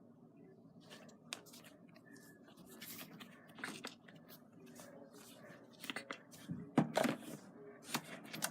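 Scattered small clicks and rustles of objects being handled by hand, with a louder cluster of clicks about seven seconds in.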